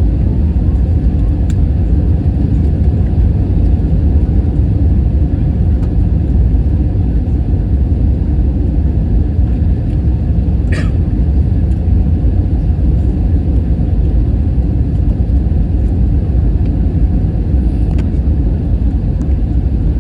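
Airbus A321 cabin noise heard from a passenger seat: a steady low rumble of engines and airflow, with one brief high chirp about halfway.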